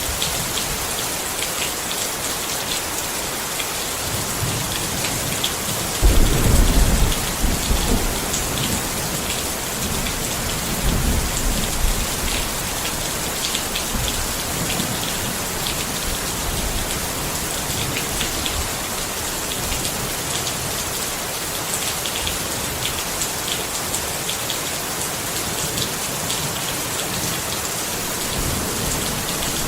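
Steady rain pattering on a tent, with a low rumble of thunder about six seconds in that fades over a couple of seconds, and a softer rumble a few seconds later.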